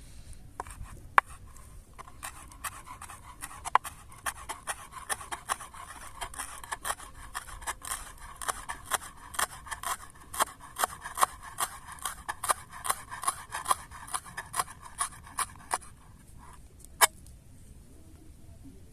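Quick regular scraping or cutting strokes of a hand tool, about two to three a second, going on for some fourteen seconds, then one sharper click near the end.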